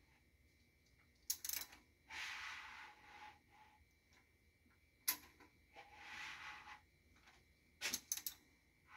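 Work on an engine block: a few sharp metallic clicks and knocks, with two hissing sounds about a second long each, one after the first clicks and one before the last.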